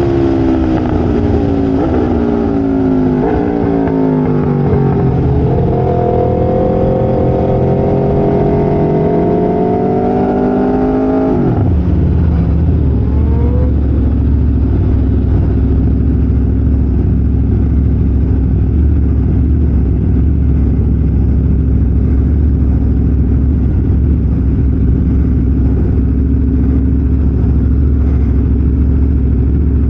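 Aprilia RSV4 V4 racing engine on track, its pitch repeatedly climbing and falling through the gears. About twelve seconds in, the sound drops sharply to a steady low drone for the rest.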